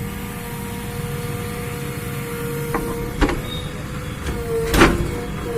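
JCB backhoe loader's diesel engine running steadily with a constant whine, with a couple of sharp clanks about three seconds in and near the end, the louder one near the end.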